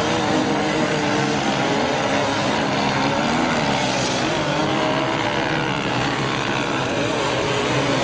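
Motorcycle engines running and revving, several pitches rising and falling over one another above a steady wash of noise.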